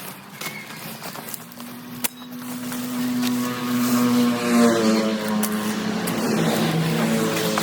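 An engine droning, growing louder and then dropping in pitch about five seconds in.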